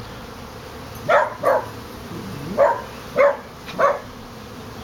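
Steady hum of a mass of honeybees flying in front of their hive entrance during a sudden surge of activity. A dog barks five times over it, and the barks are the loudest sounds.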